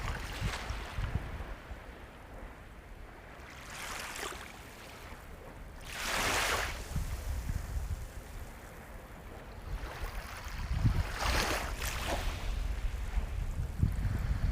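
Sea waves breaking and washing up the shore, over a steady low rumble. Three surges of hissing wash come through, the loudest about six seconds in.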